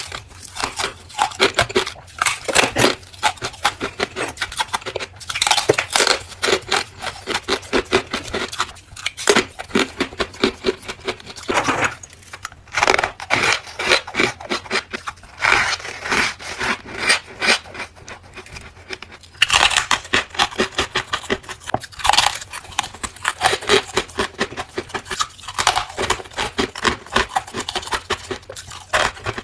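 Freezer frost ice being bitten and chewed close to the microphone: rapid, continuous crunching with a few brief pauses.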